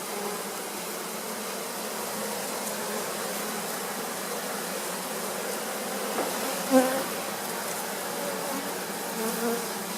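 Honey bees buzzing steadily around an open hive, with a brief louder sound about seven seconds in.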